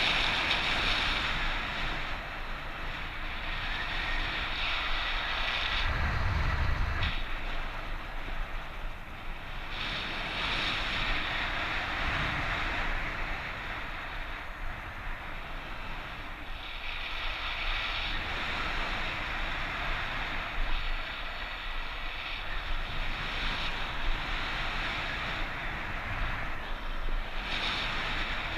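Strong wind rushing over the microphone, swelling and easing in gusts, with a brief low buffeting rumble about six seconds in.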